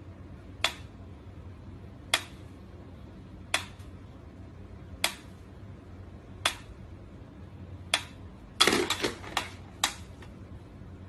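Sharp clicks or taps, six of them evenly spaced about a second and a half apart, then a quicker flurry of clicks near the end, over a low steady hum.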